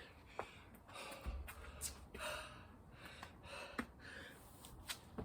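A man breathing hard from exertion, with repeated heavy, gasping breaths and a few sharp clicks between them.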